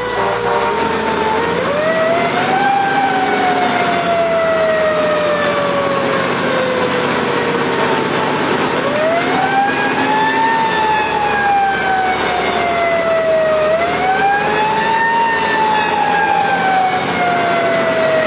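Fire engine siren wailing: its pitch winds up quickly and then falls away slowly, three times, with the truck's engine and road noise running underneath.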